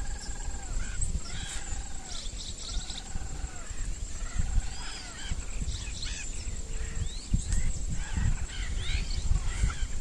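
A bird gives a series of arched, nasal calls, about one a second, that stop about five seconds in, while other birds chirp and whistle higher up throughout. A low rumble, like wind on the microphone, runs underneath.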